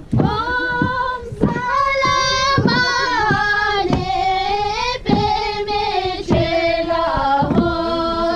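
Singing: a high voice holds long, drawn-out notes, one sung phrase after another, with short breaks between them.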